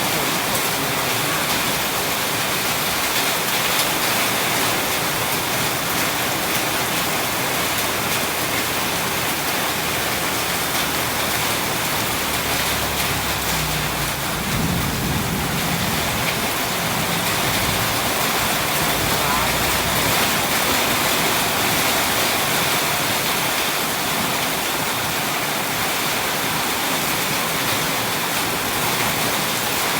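Steady heavy rain pouring down, with a low roll of thunder rising and fading about halfway through.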